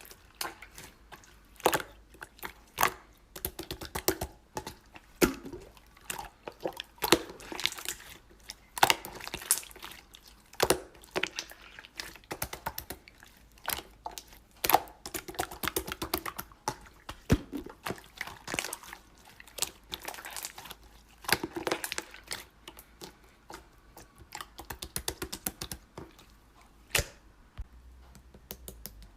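Slime being squeezed and pressed by hand, making irregular clicks and crackling pops.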